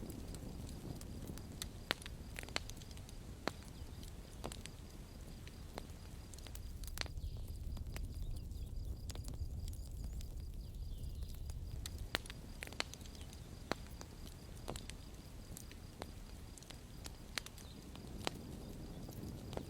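Campfire burning: irregular sharp crackles and pops over a steady low rush of the flames.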